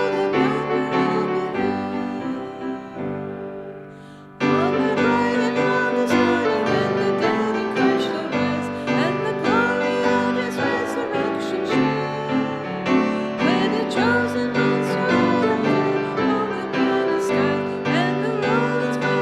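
Piano accompanying voices singing a hymn. The music fades over the first four seconds, then comes back abruptly at full level.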